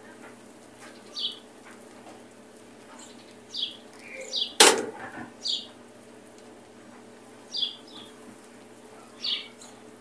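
Small birds chirping, short high chirps that drop in pitch, every second or two, over a steady low hum. A single sharp click about halfway through.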